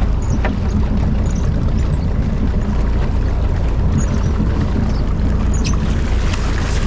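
Steady low rumble of a fishing boat's engine running, with water splashing at the surface alongside the hull.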